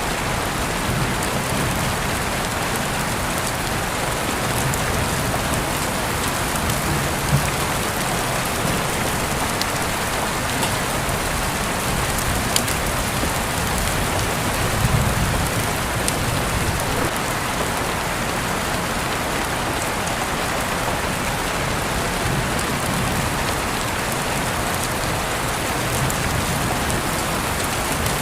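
Steady rain falling on surfaces, with the odd louder drop or splash standing out from the constant patter, most noticeably around seven, twelve and fifteen seconds in.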